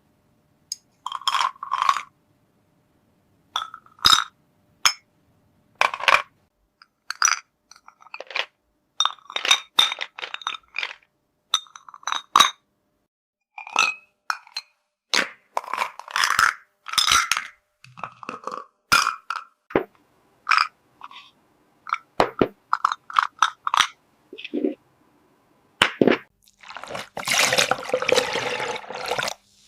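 Small miniature toy dishes and pieces clinking and tapping against each other in separate short clicks with brief ringing, spaced by silent gaps. About four-fifths of the way through comes a denser steady noise lasting about two seconds.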